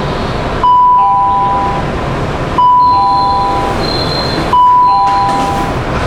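Metro train door warning chime: a two-note falling ding-dong repeated three times, about two seconds apart, sounding as the doors are about to close. A steady hiss of the train and station runs underneath.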